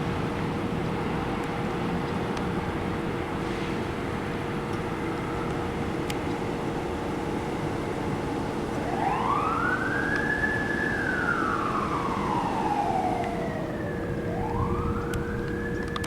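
Fire truck responding: steady engine and road noise, then about nine seconds in its siren starts a slow wail, rising, falling over several seconds, and rising again near the end.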